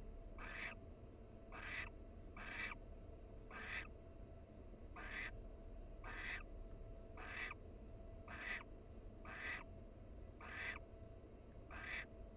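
Barn owl giving raspy, hissing 'snore' calls, repeated about once a second. This is the begging call barn owls use in the nest box.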